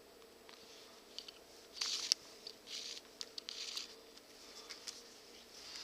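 Faint hand-sewing noises as leather is stitched: a few short swishes of thread drawn through the leather, with small clicks and rustles of the piece being handled, clustered about two seconds in and again from about three seconds in.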